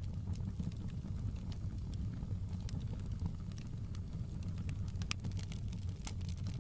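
Wood fire burning in a fireplace: a steady low rumble of the flames, with scattered sharp crackles and pops, a couple of louder pops about five and six seconds in.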